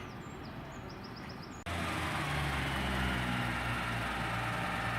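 A Class 142 Pacer diesel multiple unit's engines running as the unit pulls away from the platform. The sound comes in suddenly about a second and a half in, a steady low engine note with a higher whine over it. Before that there is only quiet background with faint chirps.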